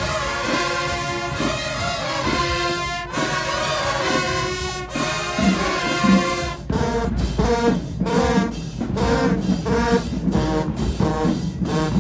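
High school marching band brass playing: held chords for the first half, then short repeated notes about two a second.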